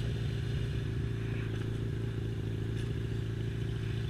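Motorcycle engine running at a steady speed, an even low drone that does not rise or fall.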